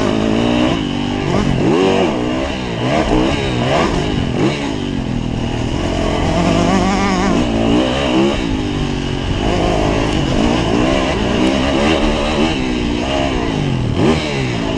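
Yamaha YZF 450 four-stroke single-cylinder motocross engine revving up and down over and over as the throttle is opened and shut through the track's sections, its pitch climbing and dropping every second or so.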